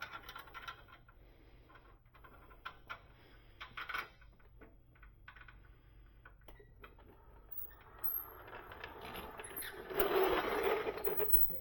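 Hand tools working transmission bolts: scattered metal clicks and scrapes, then a few seconds of continuous rapid rasping, like a ratchet being worked, loudest near the end.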